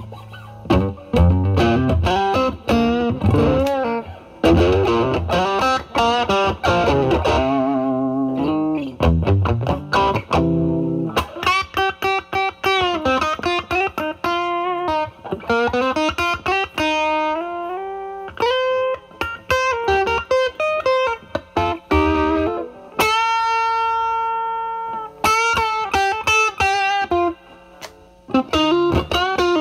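Stratocaster electric guitar played through a Vertex Steel String Clean Drive MK1 overdrive pedal at full gain, into the drive channel of a Marshall Valvestate amp. For the first ten seconds or so it plays chords, then single-note lead lines with bends and vibrato, including one long note held with vibrato about two-thirds of the way through.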